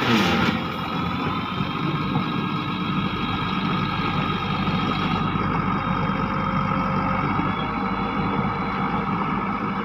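An engine running steadily at idle, with a short hiss in the first half second.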